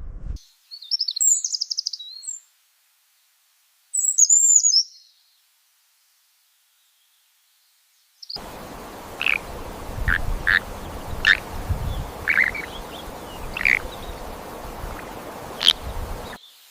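Bird calls: two loud, high-pitched calls made of rapid repeated notes, then a pause. After that come scattered short chirps over outdoor background noise with low rumble.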